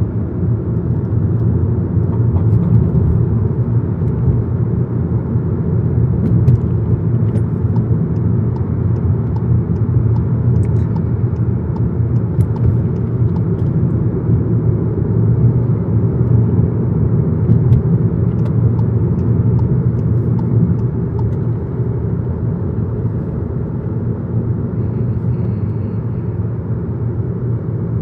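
VW Golf GTI Mk7 driving along, a steady low rumble of engine and road noise heard from inside the cabin.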